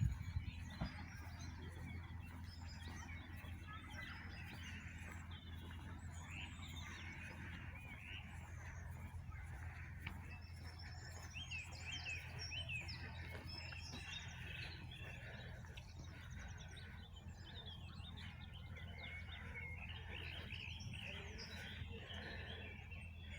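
Several songbirds singing at once, many overlapping chirps and trills throughout, over a steady low rumble.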